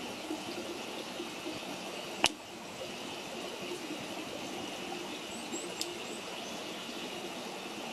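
Wood campfire burning with a steady hiss and light crackle, with one sharp loud pop a little over two seconds in and a smaller pop near six seconds.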